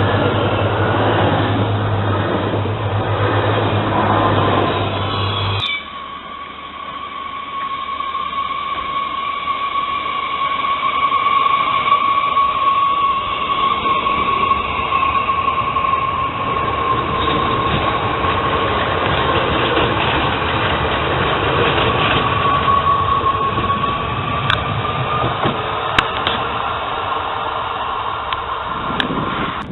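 Trains running on the rails: a loud rumble with a steady low hum, then after an abrupt change about six seconds in, a train with a steady high whine that rises a little near the end.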